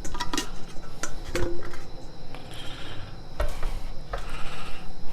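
Kitchenware handled for straining stock: a few scattered clinks and knocks of a metal strainer and bowls being set in place.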